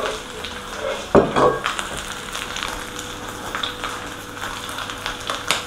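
Fried rice frying in a wok, a steady sizzle, with a brief knock about a second in and a sharp click near the end.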